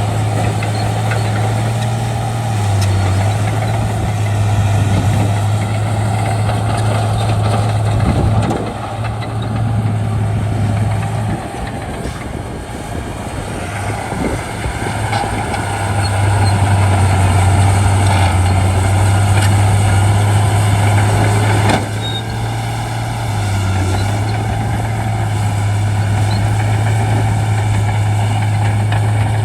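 Shantui D95 bulldozer's diesel engine running with a steady low drone. The level drops about eight seconds in, climbs again a few seconds later, and falls suddenly after about twenty-two seconds as the load changes.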